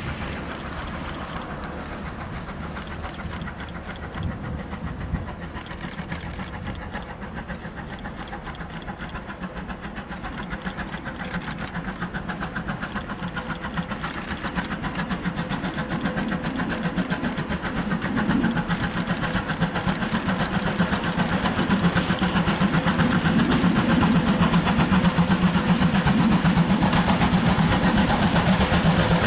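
An approaching train hauled by steam locomotive C12 66, its running sound growing steadily louder as it draws near, heaviest in the last third.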